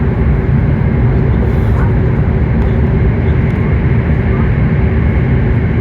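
Cabin noise inside a W7 series Shinkansen passenger car running at speed: a steady, loud low rumble and rush of running noise with a faint hum.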